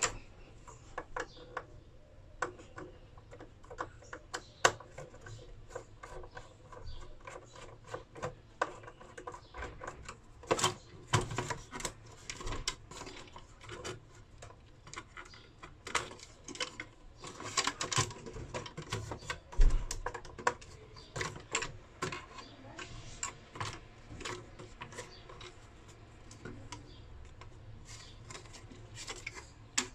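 Irregular clicks, taps and small knocks of hand tools and parts being handled during electronics repair work, with a louder low thump a little before the middle.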